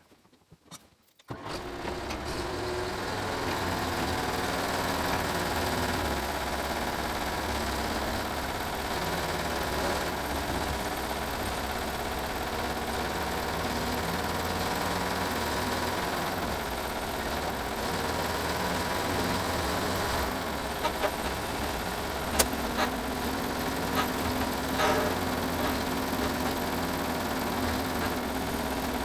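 Small gasoline engine of a Woodland Mills HM130 sawmill starts about a second in and runs steadily, with a few sharp clicks near the end.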